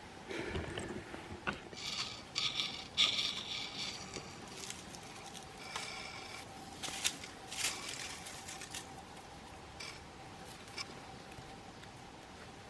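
Irregular rustling and scraping with a few sharp clicks, busiest early on and thinning out toward the end, over a faint steady hum.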